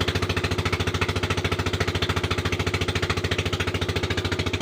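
A machine running steadily with a fast, even chugging of about a dozen beats a second.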